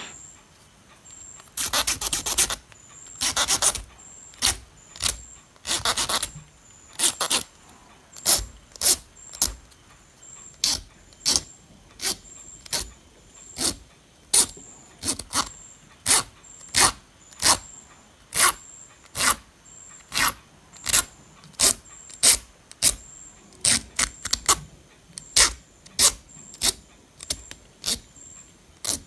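Repeated scraping strokes, about one or two a second with a few longer ones near the start, as rust is scrubbed off corroded metal parts from a power supply board.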